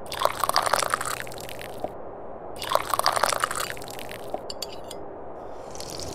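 Tea being slurped from a cup in two long, wet sips of about a second and a half each, followed by a brief quick clicking rattle and the fainter start of another sip near the end.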